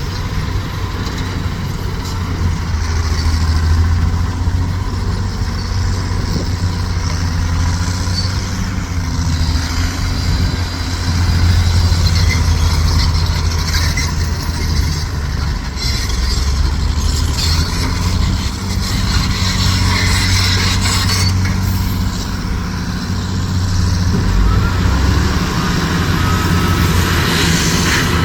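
A heavy truck's diesel engine runs steadily, its low drone swelling and easing, with scattered clattering and hissing mixed in through the middle.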